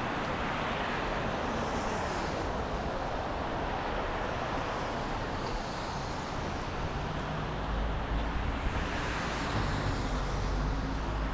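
City street traffic: a steady hiss of cars and tyres, with vehicles swelling past about two seconds in and again near the end, and a deep rumble starting about eight seconds in.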